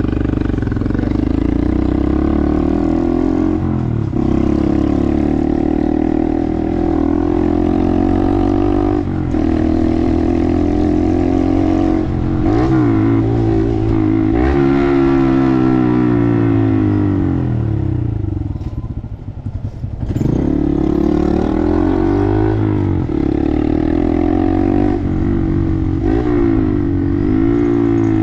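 Small Honda 125 cc single-cylinder motorcycle riding through traffic, its engine running steadily and revving up and easing off several times. The engine drops toward idle about 18 seconds in, then picks up again.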